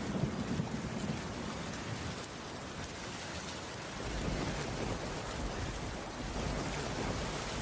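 Steady rain falling on a wooden cabin roof, with a low rumble of distant thunder swelling near the start and again about halfway through.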